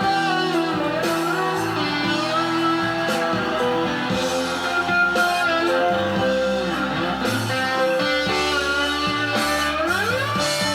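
Live southern rock band in an instrumental passage: an electric slide guitar plays a melody of gliding, bending notes over held keyboard chords, bass and drums.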